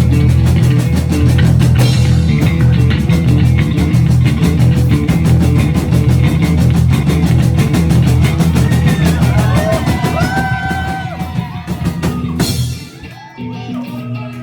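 A live rock band plays with drum kit, bass and electric guitar. About thirteen seconds in, the drums and bass drop out, leaving a quieter guitar.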